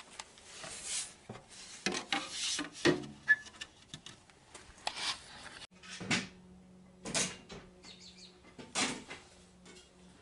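Irregular knocks, clatters and scrapes of parts and tools being handled while the machine is assembled, a few of them sharp. A faint steady hum runs underneath.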